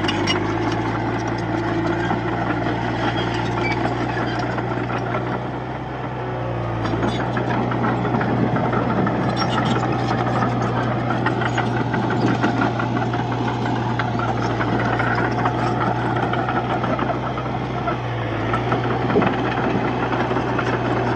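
Komatsu D31-P bulldozer's diesel engine running steadily under work, its note dipping briefly twice, about six seconds in and again near the end.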